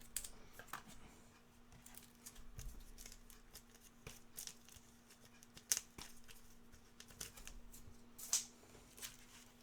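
Faint handling of trading cards: light rustling and sliding of cards and plastic sleeves, with a few sharp clicks, over a faint steady hum.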